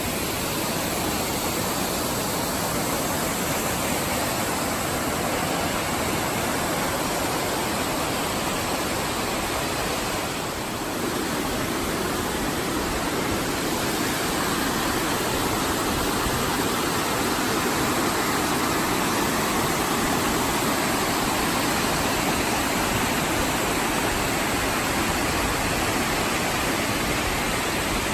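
Steady rushing of running water, a creek or cascade, unbroken, with a brief dip about ten seconds in.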